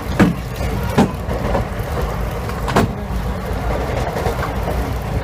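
Steady low rumble of a moving passenger train heard from inside the coach, with a few sharp knocks about a second in and near the three-second mark.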